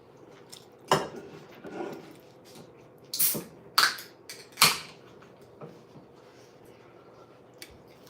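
Dishes clattering: about five sharp clinks and knocks, the three loudest close together a little past the middle.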